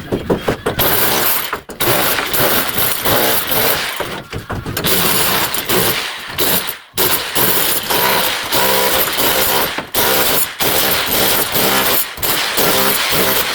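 A hammering power tool, such as a hammer drill or rotary hammer, running loud in bursts of a few seconds with short breaks between them.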